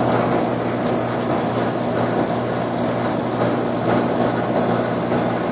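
Residential A/C condensing unit running: the compressor's steady hum under the rush of the condenser fan.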